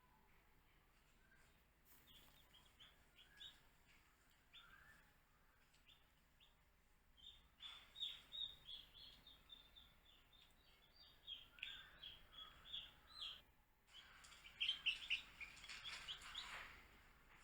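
Baby chicks peeping: many short, high chirps, sparse and faint at first, then coming thick and fast about eight seconds in and again near the end.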